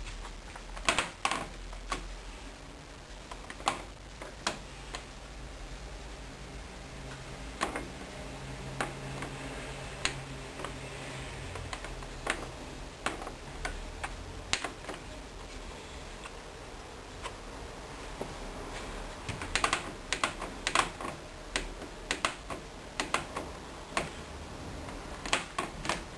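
Irregular sharp clicks, some in quick clusters, like the buttons and programme dial of a Hoover Dynamic Wash washing machine being worked, over a steady low hum.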